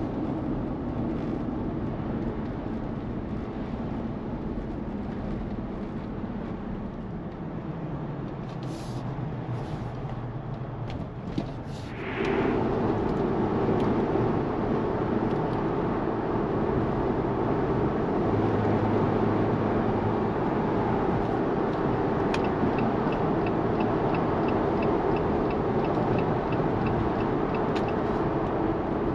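Jeep Wrangler Rubicon's 2.0-litre turbo four-cylinder petrol engine and road noise, heard from inside the cabin. About twelve seconds in, the noise gets suddenly louder and stays that way as the Jeep picks up speed onto the motorway.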